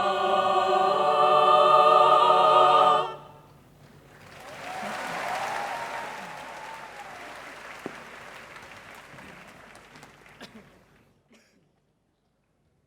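Mixed choir singing a cappella, holding the final chord of the song, cut off together about three seconds in. Then audience applause swells and slowly fades away.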